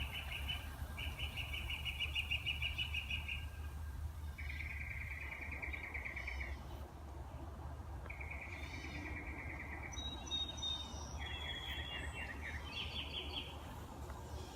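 Songbirds singing: a series of rapid trills, each held for one to two seconds, repeated about six times at slightly different pitches, with a few higher chirps between them. A steady low rumble runs underneath.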